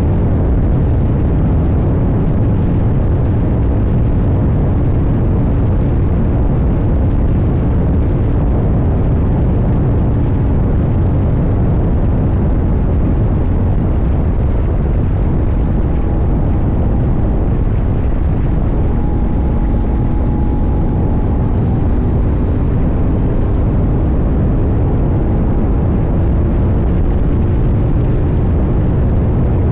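CFMoto 800NK's parallel-twin engine running steadily under way, heard from a tank-mounted camera and mixed with heavy, even wind and road rumble.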